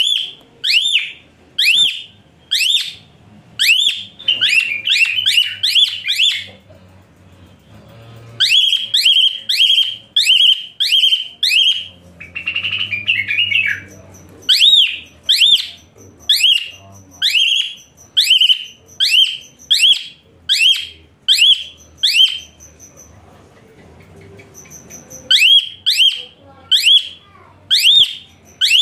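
A songbird singing: loud, sharp, arched whistled chirps about two a second, delivered in runs with short pauses between them, and a brief scratchy chatter about halfway through.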